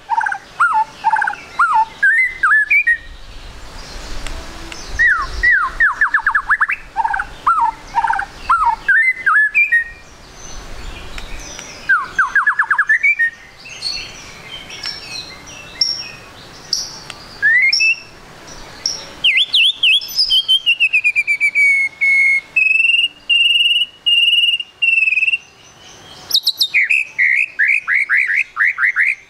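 Juvenile white-rumped shama (murai batu trotol) calling in rapid runs of quick down-slurred chips, broken by a few longer whistled notes, one held steady for a few seconds near the end.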